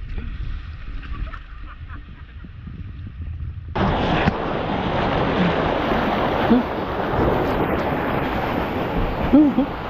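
Rushing, splashing water that starts suddenly about four seconds in and stays loud, over a low wind rumble on the microphone, with faint voices far off.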